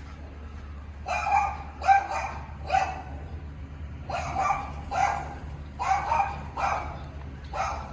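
A dog barking repeatedly, about nine short barks in uneven bouts that start about a second in.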